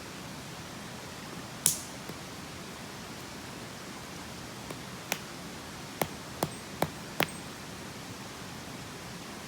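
Steady rushing of a mountain stream, with half a dozen sharp cracks or snaps, one about two seconds in and a quick cluster of five a little past halfway.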